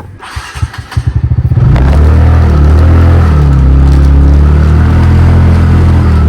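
TVS Ntorq scooter engine being started: about a second and a half of quickening starter pulses, then it catches and runs steadily at idle.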